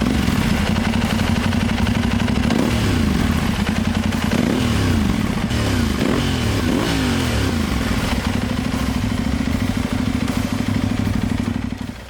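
Aprilia Tuareg 660's parallel-twin engine through a very loud aftermarket exhaust, idling, then blipped repeatedly in quick rising-and-falling revs for a few seconds in the middle before settling back to a steady idle.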